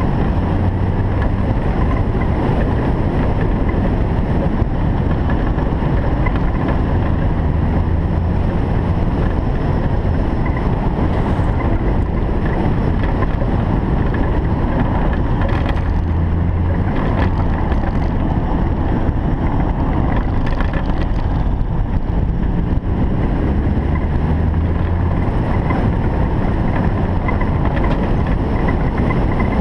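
Single-turbo Toyota Supra being driven, its engine a steady low drone under heavy road and wind noise, the engine note shifting slightly in pitch now and then.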